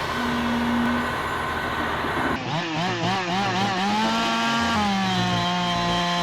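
An engine running, its pitch wavering quickly up and down for a second or so, then rising slightly and holding steady.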